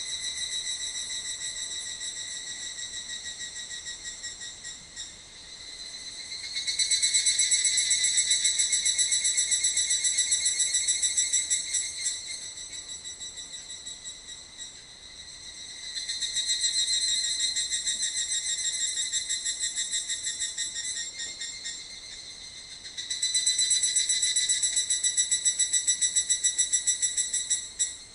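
Insect song: a high, rapidly pulsing chirr that swells loud three times for about five seconds each, with a softer steady song between the swells.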